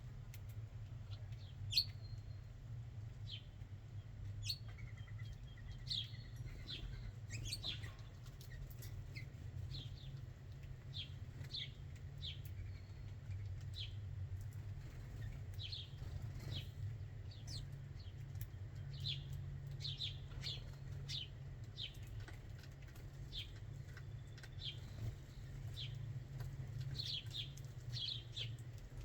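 Small backyard birds at a feeder chirping over and over, short high downward chips coming every second or so, sometimes two or three close together. A steady low rumble runs underneath, and a single sharp tap sounds about two seconds in.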